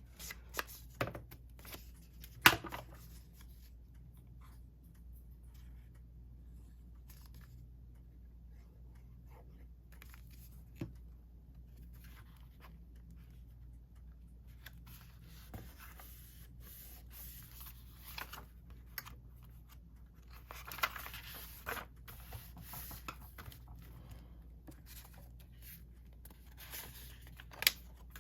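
Paper being handled and rubbed down while ephemera is glued into a journal: rustling and scraping of paper with a few sharp taps, the loudest about two and a half seconds in, over a faint steady low hum.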